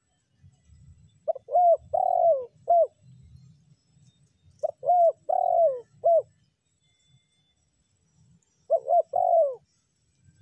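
Spotted dove (tekukur) cooing: three phrases of short, down-curving coos, about four notes in each of the first two and three in the last, a few seconds apart.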